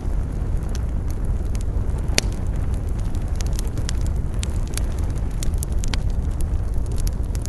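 Wood campfire crackling with frequent sharp pops, one louder pop about two seconds in, over a steady low rumble of wind.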